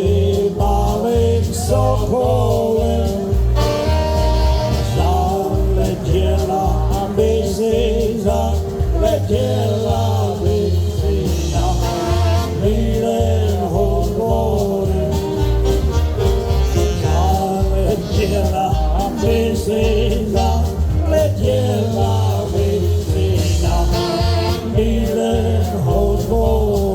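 A live polka band playing a polka, with a steady pulsing bass beat under the melody.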